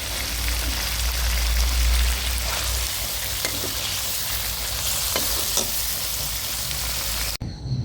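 Food frying in hot oil in a pan, a steady sizzle, with a few light clinks of a spatula stirring it. The sound cuts off abruptly near the end.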